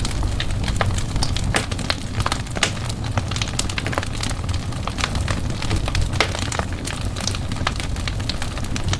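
A fire in a fireplace crackling, with frequent irregular sharp pops and snaps over a steady low rumble of the flames.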